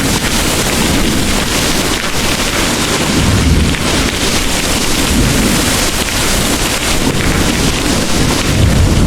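Heavy rain pouring steadily, with distant thunder rumbling low underneath. The rumble swells about three and a half seconds in and again near the end.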